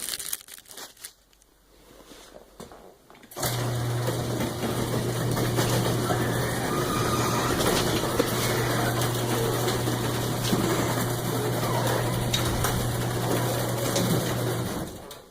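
A few clicks, then a motorised machine starts about three seconds in, runs with a steady hum for about eleven seconds and stops shortly before the end.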